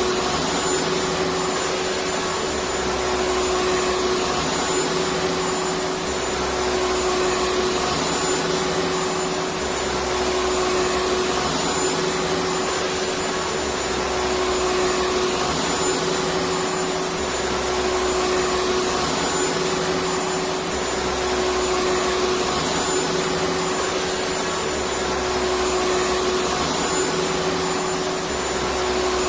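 Vacuum cleaner running steadily: a continuous rushing noise with a steady motor hum, and a faint low throb that comes and goes every three to four seconds.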